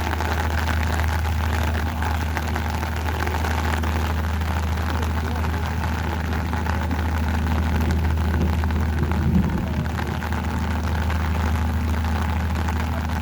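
A steady low engine hum, like a large engine idling, over an even background hiss.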